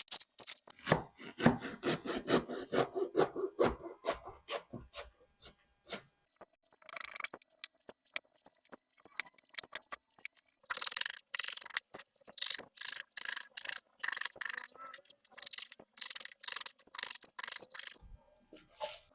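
Knife cutting through a head of napa cabbage on a cutting board: crisp crunching, scraping strokes, irregular at first, then a steady run of about two strokes a second in the second half.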